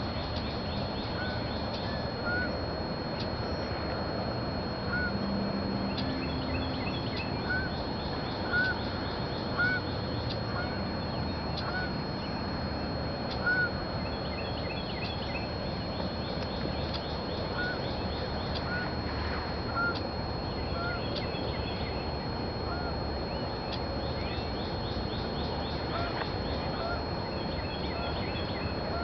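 Birds calling: short single calls every second or so, scattered irregularly, over a steady wash of background noise with a thin constant high whine.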